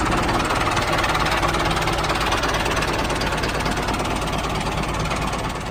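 Small engine running steadily with a fast, even firing rhythm, just after being started.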